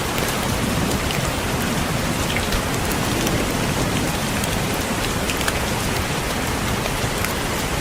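Steady rain with scattered sharp raindrop taps against window glass.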